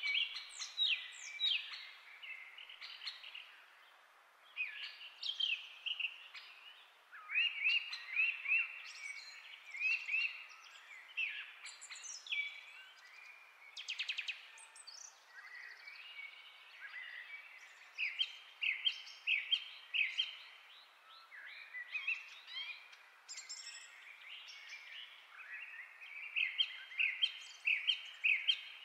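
Birds chirping and singing: runs of quick, high chirps come and go every second or two, with short lulls between.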